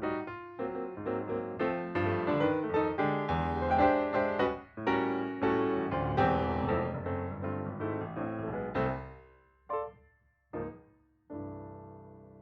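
Piano background music, notes struck in a steady flowing pattern that thins out about nine seconds in to a few separate notes and ends on a last held note that fades away.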